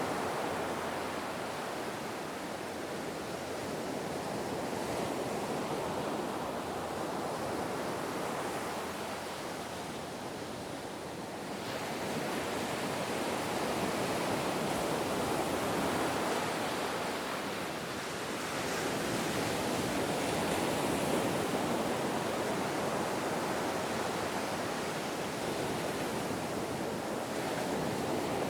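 Ocean waves breaking and washing on a shore, a continuous surf roar that swells and eases over several seconds, dipping briefly about ten seconds in and again a little later before building back up.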